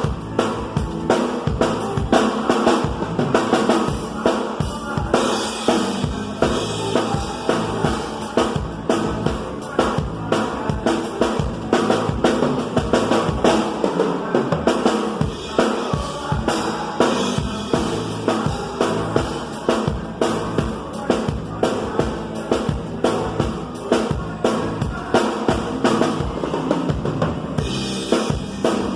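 Live band music driven by a drum kit, with a steady beat of bass drum and snare strokes under other instruments.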